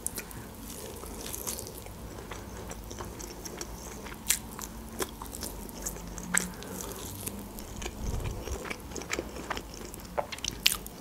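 Close-miked eating of a roasted chicken wing: chewing, with the meat torn apart by hand and scattered sharp wet clicks and crunches from the mouth.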